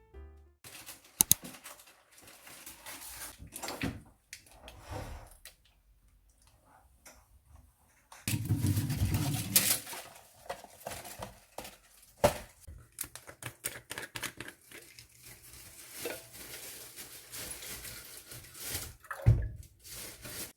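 Clatter and rustle of dishes, cutlery and food being handled at a meal: short irregular clicks and scrapes, with a louder stretch of rustling about eight seconds in.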